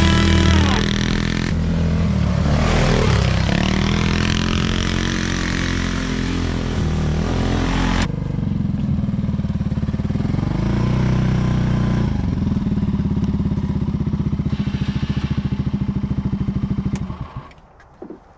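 Polaris RZR side-by-side's engine running as it drives, its pitch rising and falling with the throttle, then cutting off near the end.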